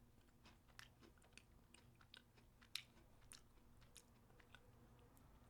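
Faint chewing of a crunchy cinnamon-bun-flavoured sandwich cookie: scattered small crunches and mouth clicks, one a little louder near the middle.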